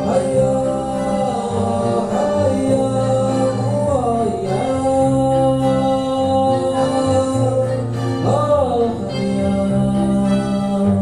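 Live music: a man singing long, held notes that slide between pitches, over guitar and a steady bass line.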